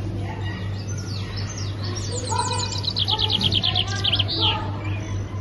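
Songbirds chirping and singing, with quick falling chirps and a fast trill of repeated high notes a few seconds in. A steady low hum runs beneath.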